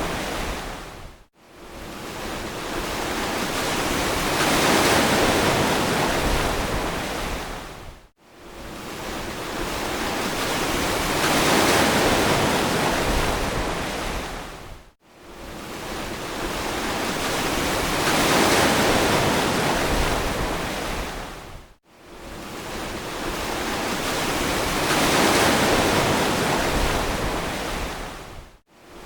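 Ocean surf washing in and out: a wide hiss that swells and fades about every seven seconds, with a brief, abrupt gap near silence between swells, four times.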